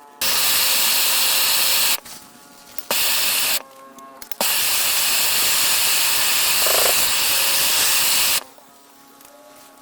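Water rushing and spraying hard out of a hose bib in three loud bursts, the longest about four seconds, each cutting off abruptly.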